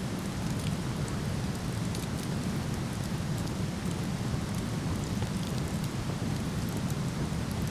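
Steady rushing of a waterfall, with a wood fire crackling over it in small, sharp pops scattered through.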